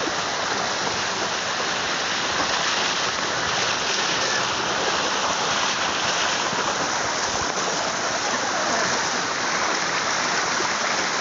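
Waterfall: falling water pouring and splashing in a steady, even rush.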